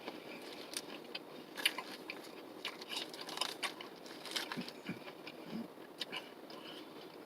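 A person chewing a mouthful of salad with a piece of crisp Granny Smith apple, giving irregular crunches.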